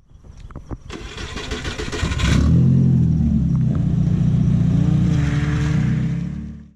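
Car engine starting and then running loudly with revs, after a few clicks and a short hissing start. It cuts off abruptly near the end.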